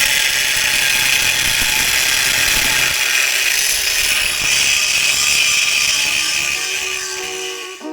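Power tool cutting metal off a bracket so it will clear: a steady, high-pitched noise that stops near the end.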